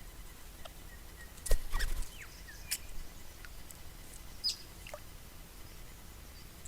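Parrots bathing in a water trough: a burst of splashing and flapping about one and a half seconds in, a few sharp clicks and splashes after it, and scattered short bird chirps.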